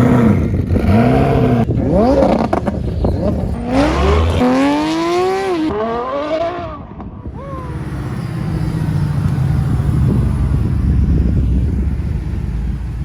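High-performance car engines revving hard, the pitch climbing and dropping sharply several times, then settling into a steady low exhaust rumble.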